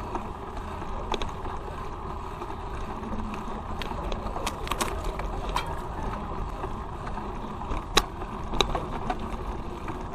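Bicycle ride on pavement: steady tyre and wind noise with a low rumble, broken by a few sharp clicks, the sharpest about eight seconds in.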